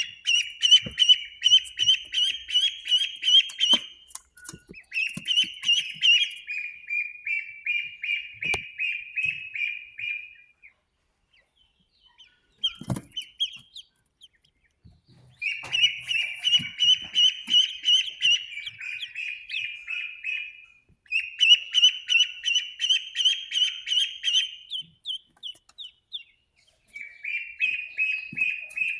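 Newly hatched ducklings peeping: fast, high, repeated peeps in bouts of several seconds with short pauses between. There is a quieter gap about halfway through, with a single knock in it.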